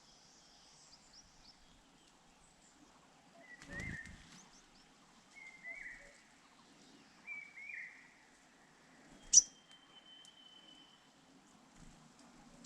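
Grey-cheeked fulvetta at its nest: a brief flutter or rustle, then three short chirps a couple of seconds apart, and a sharp, louder chirp near the end, over faint outdoor ambience.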